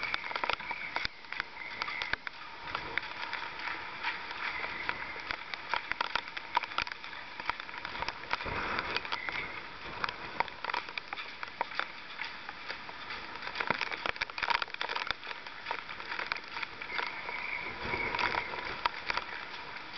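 Yacht harbour in heavy surge: dense, irregular knocking and clacking from moored yachts and their fittings, over a steady hiss of wind and surf with a faint whistle.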